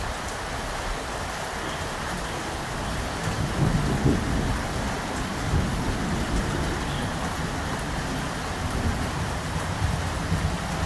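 Steady heavy rain with a low rumble of thunder that swells about three and a half seconds in, peaks near four seconds and keeps rolling more faintly after.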